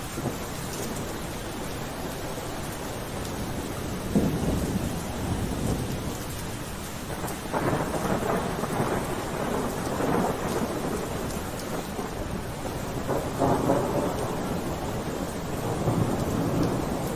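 Steady rainfall with rolling thunder, the rumbles swelling and fading several times over the rain.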